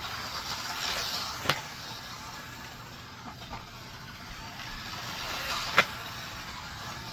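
Small 1/24-scale brushed RC short course truck driven hard at near full throttle: a steady rushing hiss of motor and tyres that swells and fades, with two sharp knocks, about a second and a half in and about six seconds in.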